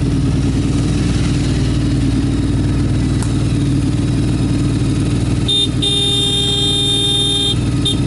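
Motorcycle engine running steadily while riding. About five and a half seconds in, a horn sounds for about two seconds, then gives a short toot near the end.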